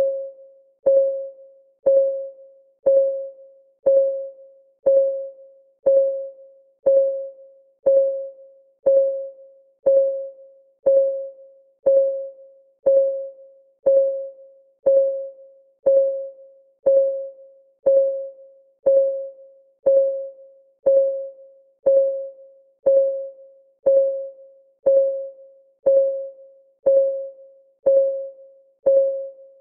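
Countdown timer's clock-ticking sound: a short, pitched tick once a second, each one dying away quickly.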